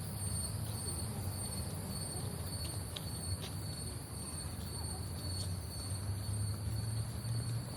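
Steady chorus of tropical insects: several unbroken high-pitched drones over a low steady rumble, with a few faint ticks.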